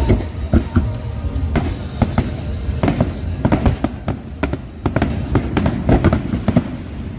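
Aerial fireworks shells bursting in a rapid, irregular series of sharp bangs and cracks, several a second, over a steady low rumble.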